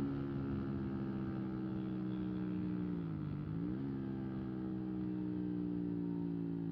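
125 cc single-cylinder motorcycle engine running at steady revs; its pitch dips briefly and comes back up about three seconds in.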